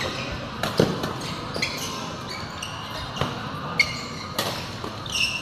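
Sports shoes squeaking on an indoor court floor, mixed with several sharp hits and thuds of play.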